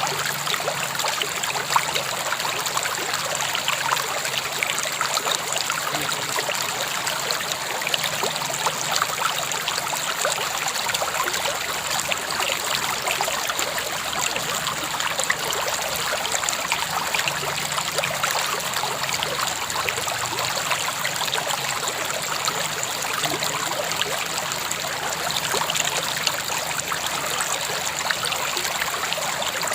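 River water flowing steadily: an even rush with many small trickles and splashes.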